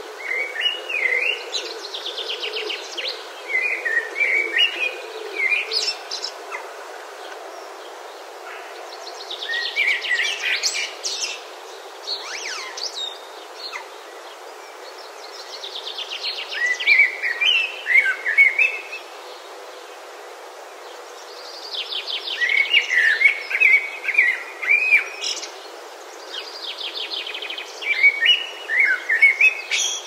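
A songbird singing, five short phrases each two to three seconds long, repeated about every six seconds. Each phrase opens with a rapid trill and runs into quick chirping notes.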